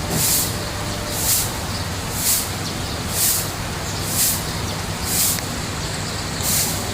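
Hissing spurts of water spray, evenly spaced about once a second, over a steady low electric hum, typical of a koi pond's pump and water feature.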